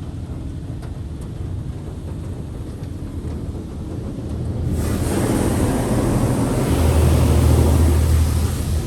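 Washworld High Velocity touchless car wash machine running, with a steady low rumble. About halfway in, a loud rushing hiss comes on suddenly, swells with a heavy low rumble, and eases off near the end as the machine's high-pressure spray sweeps over the car.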